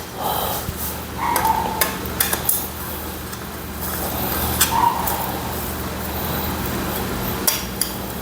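Scattered light metal clinks and taps of hand tools and engine parts being handled while the oil pump shaft retainer is fitted on a CGP 250cc engine, over a steady low hum.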